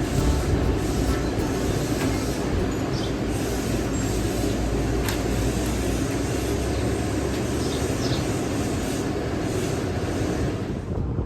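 A passenger train running, with a steady rumble and rattle and a few light clicks.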